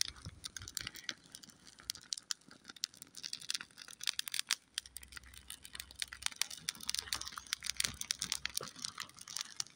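Small smudge fire crackling, with many irregular sharp snaps and pops.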